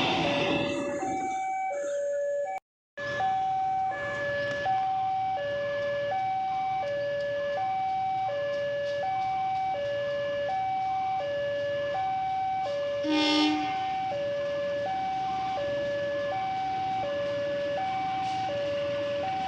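Railway level-crossing warning alarm sounding a steady two-tone electronic signal, alternating low and high about every half second or so, warning that a train is coming or the crossing is still closed. It cuts out for a moment about three seconds in, and a short louder blare sounds about two-thirds of the way through.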